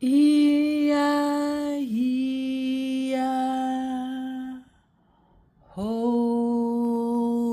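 A woman's voice singing or humming long held notes without words: one note of about four and a half seconds, a short pause, then a second long note.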